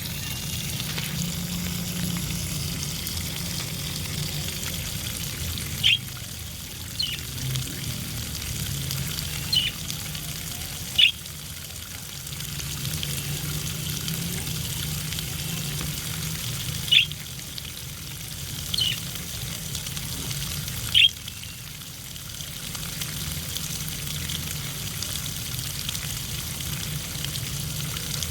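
Water running and splashing steadily as budgerigars bathe, with a short high chirp from a budgerigar every few seconds.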